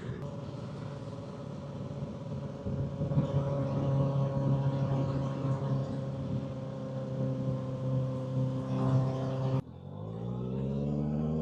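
Motorcycle engine running at a steady pitch while riding, a little louder about two and a half seconds in. The sound cuts off abruptly near the end, then the engine comes back rising steadily in pitch as the bike accelerates.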